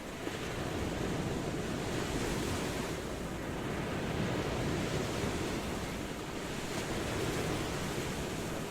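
Ocean waves washing in, a steady rush of surf that swells a little and eases.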